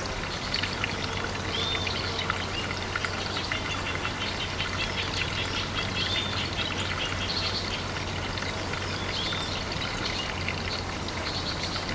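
Water pouring and trickling into a pond, with many small ticks and a low steady hum, while a bird gives a short rising-and-falling call every few seconds.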